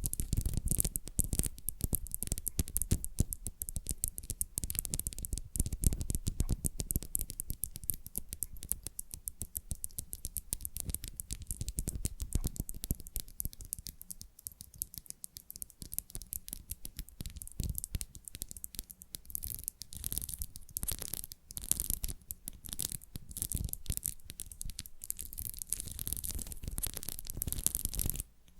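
Rapid fingernail scratching and tapping close to the microphone, a dense unbroken run of quick scratches and taps. Heavier thuds come in the first few seconds, and the scratching turns brighter and hissier from about two-thirds of the way through.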